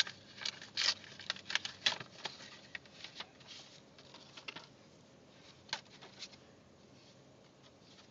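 Wrapping paper crinkling and tearing as a present is unwrapped: a quick run of rustles and rips over the first few seconds, then two short rustles later.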